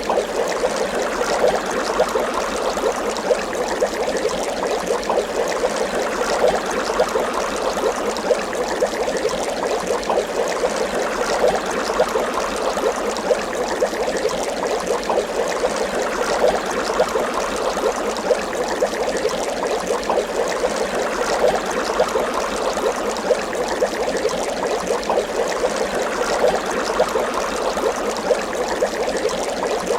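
Water bubbling continuously, a dense, steady stream of small bubbles popping and gurgling.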